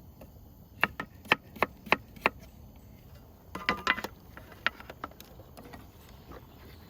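Knife chopping on a wooden cutting board: six sharp knocks about three a second, a quick cluster of knocks about halfway through, then a single knock.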